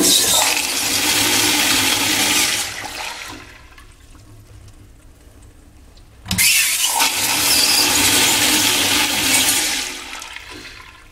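Sloan flushometer toilet flushing twice with a loud rush of water. The first flush is already running and dies down about three seconds in; the second starts sharply about six seconds in and lasts about four seconds. A pretty powerful flush.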